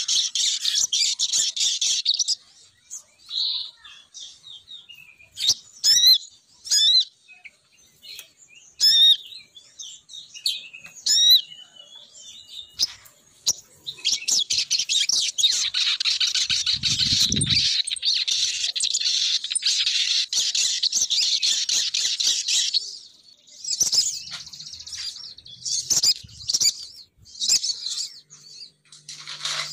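Female sogon bird calls used as a bird lure: dense, rapid high chattering that comes in long runs, broken by stretches of single sharp chirps. A brief low bump sounds about halfway through.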